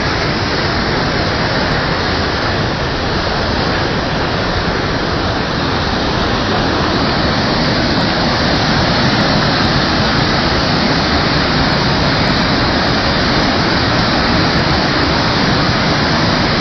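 Linton Falls on the River Wharfe in flood: a steady, loud rush of floodwater pouring over the falls.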